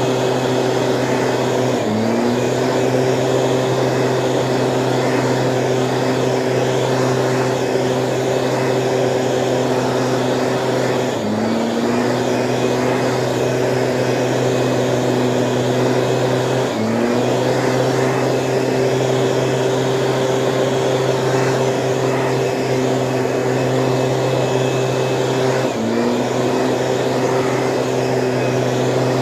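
Small two-stroke engine of a Stihl power sprayer running steadily at high speed, its pitch dipping briefly and climbing back four times.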